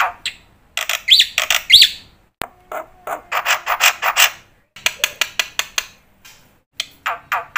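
Black-winged myna (jalak putih) singing vigorously: harsh, rapid chattering phrases broken by short pauses, with two rising whistles a little over a second in.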